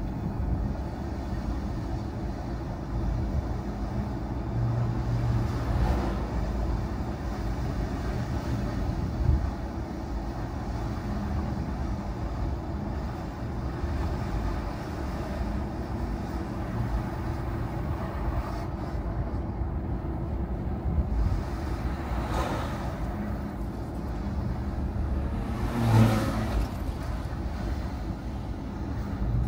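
Car driving along a road: a steady low rumble of engine and tyres, with brief louder swells about six seconds in and twice near the end.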